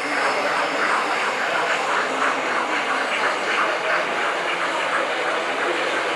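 Steady crowd hubbub of an indoor exhibition hall.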